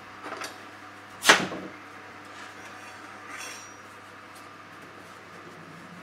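Kitchen knife cutting into a pumpkin on a cutting board. A few small knocks, then one sharp knock about a second in, and a short scrape about halfway through.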